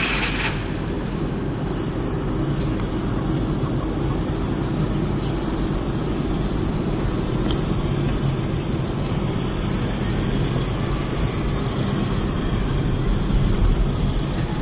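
Volkswagen sedan's engine running as the car pulls away and drives along the road: a steady, even drone with no break.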